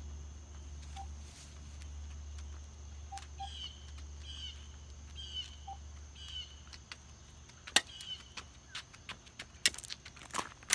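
A small bird calling, a run of short falling chirps about every second or less through the middle, over a steady low hum. Near the end come sharp clicks and knocks as the camera is handled close up.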